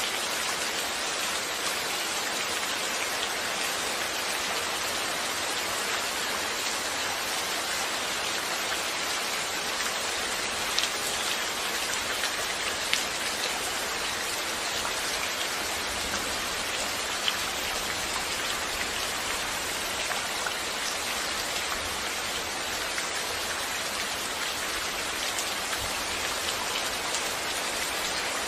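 Steady rain, an even hiss of drops falling on a surface, with a few louder single drops ticking now and then.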